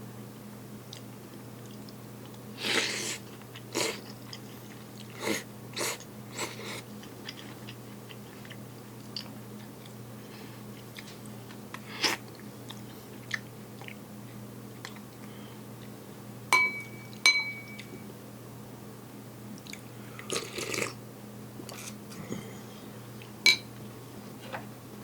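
Someone eating a rice dish: scattered chewing and mouth noises with utensil clicks, including a few short ringing clinks against the dish, over a steady low hum.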